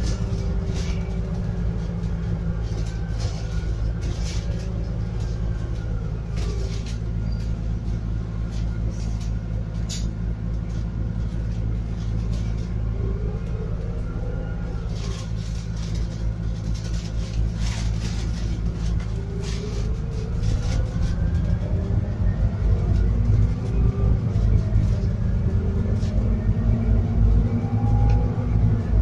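Scania N280UD double-decker bus's biogas engine and drivetrain heard from inside the bus: a steady low rumble whose pitch glides up and down as it pulls away and slows, with scattered rattles and knocks. It gets louder about twenty seconds in as the bus accelerates harder.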